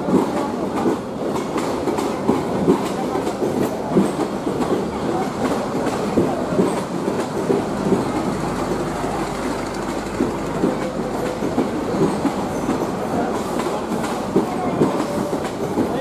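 Local passenger train rolling past, its coaches' wheels knocking over the rail joints in a continuous run of clicks.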